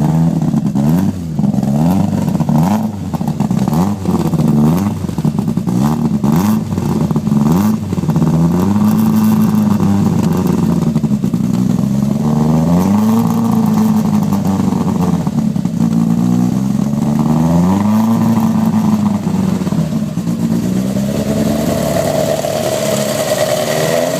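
Peugeot 106 Rallye engine on GSXR motorcycle individual throttle bodies, with high-compression pistons, big cams and a custom exhaust, being revved over and over: revs rise and fall in quick blips at first, then in longer, smoother sweeps. It is kept to moderate revs because the engine is fresh from running-in.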